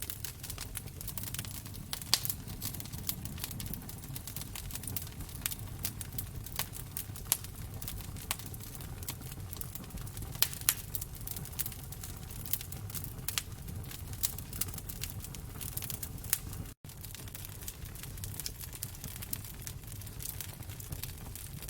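Wood fire crackling in a fireplace: irregular sharp pops and snaps over a low, steady rumble of the flames. The sound cuts out for an instant about 17 seconds in.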